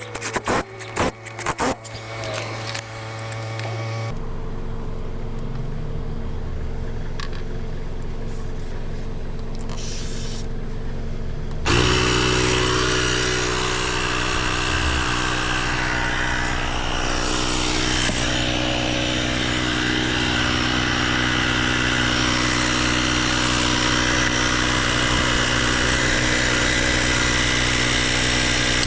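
A motor running steadily, with a few sharp clicks at the start. It gets louder and fuller about twelve seconds in and holds there.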